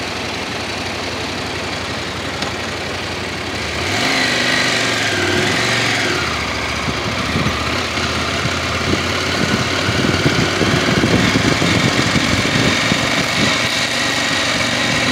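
Motorcycle engines idling, then about four seconds in one pulls away, its engine note rising and falling as it rides off up the trail, while engine noise carries on and swells later.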